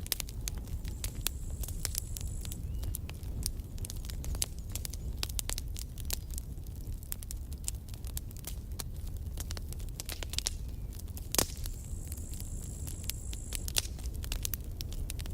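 Campfire burning: wood crackling and popping in irregular sharp clicks over a steady low rumble of the fire. One pop, about two-thirds of the way through, is louder than the rest.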